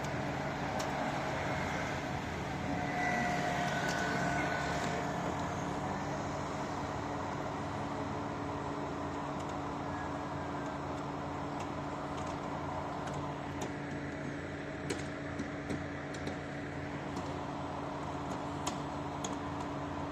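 Steady engine hum of a large vehicle running, with a brief faint squeal a few seconds in and a scattering of light clicks toward the end.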